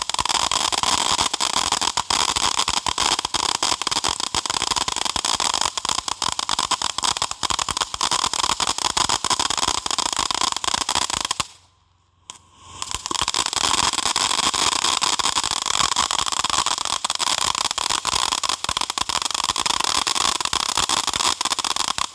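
Jumping Jack Flash ground firework going off with a loud, dense crackling and popping. It stops abruptly for about a second midway, then crackles on again.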